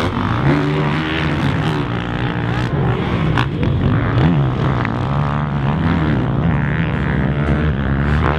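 Honda CRF450R motocross bike's single-cylinder four-stroke engine revving as it is ridden, its pitch rising and falling again and again with throttle and gear changes.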